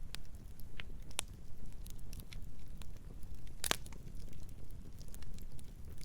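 Campfire burning with a steady low rumble of flames and scattered crackles and pops from the wood, one louder pop just past the middle.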